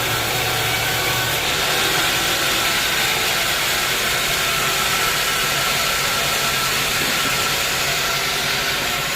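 Bandsaw sawmill machinery running steadily, with a steady high whine over the noise; a low hum drops away about a second and a half in.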